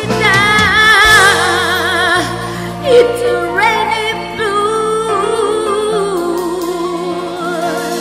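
Live band playing a slow ballad while a singer holds long notes with vibrato over sustained accompaniment; the music starts to die away near the end.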